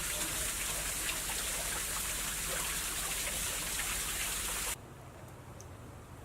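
Falling water splashing steadily, a dense hiss full of small patters, which cuts off abruptly about three-quarters of the way through, leaving a quieter low hum.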